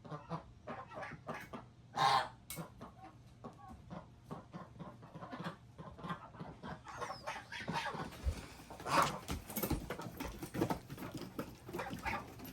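Chickens clucking in short, irregular bursts, with a louder one about two seconds in.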